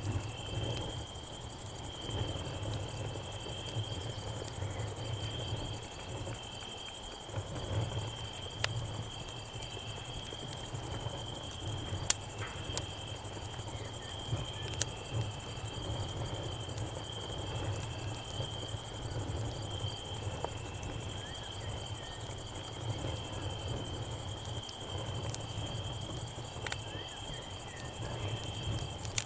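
Night insect chorus: a steady high cicada drone with crickets chirping in a pulsing rhythm. A campfire gives an occasional sharp crackle or pop, the strongest about twelve seconds in, over a low rumble.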